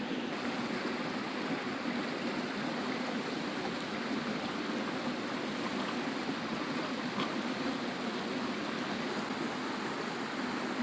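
Steady rushing of a river flowing over rocks, with a couple of faint ticks.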